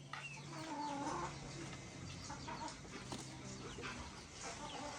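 Chickens clucking, with many short calls scattered through, over a faint low hum.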